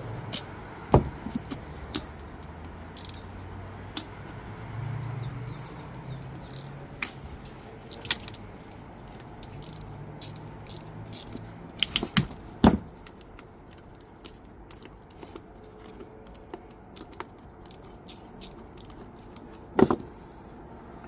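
Metal tools and starter-motor parts clinking and knocking during hand disassembly: irregular sharp clicks with a few louder knocks, a cluster of them about twelve seconds in and another near the end.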